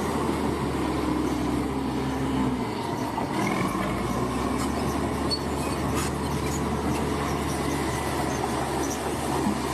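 Heavy crawler bulldozer's diesel engine running steadily, its note shifting briefly about three seconds in.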